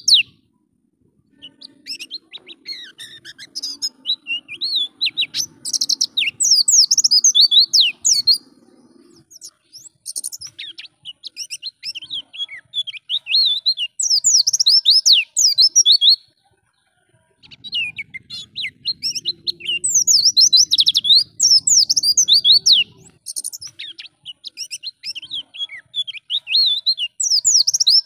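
White-eye (pleci) singing a rapid, high-pitched twittering song in long runs, broken by a few short pauses.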